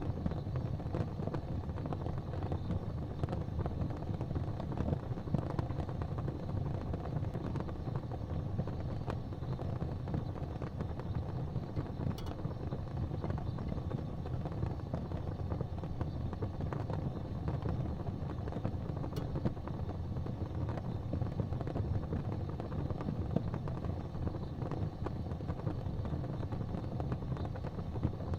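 Steady low rumble of a fire burning in a fireplace, with a couple of faint crackles.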